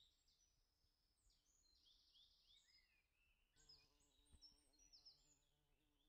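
Faint small-bird chirping, many short high notes repeated quickly one after another. About halfway through, a low steady hum comes in under the chirps.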